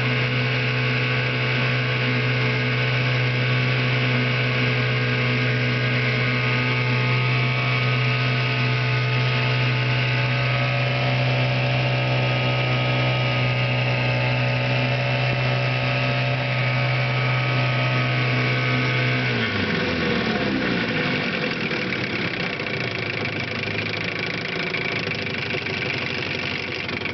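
1978 Johnson 4 hp twin-cylinder two-stroke outboard motor running steadily at speed, then slowed about twenty seconds in, its pitch falling to a lower, slightly quieter run. It runs smoothly.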